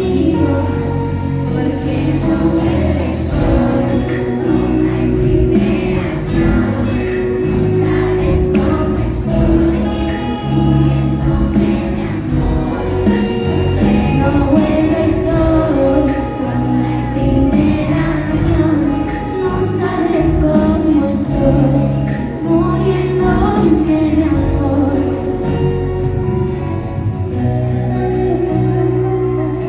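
Live pop concert: band playing with many voices singing at once, loud and continuous.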